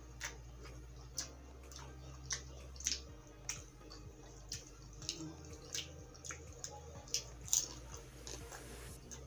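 Close-miked wet chewing and mouth sounds: sharp, moist clicks and smacks about once or twice a second.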